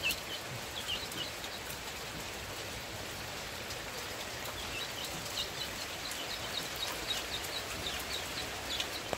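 Steady heavy rain, with chicks peeping in short falling cheeps: a few near the start, then a quick run of them through the second half.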